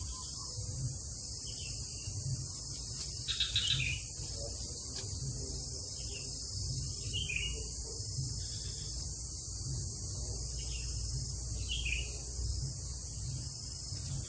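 Short, high bird chirps every second or two, each dropping slightly in pitch, the loudest about three and a half seconds in, over a steady high insect drone.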